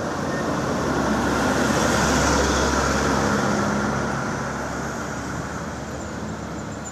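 A truck driving past, its engine and tyre noise swelling to a peak about two seconds in, then slowly fading away.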